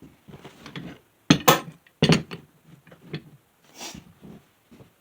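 Knocks and clanks of woodworking clamps and boards being handled and set down, with the loudest sharp knocks about a second and a half and two seconds in, among smaller clicks.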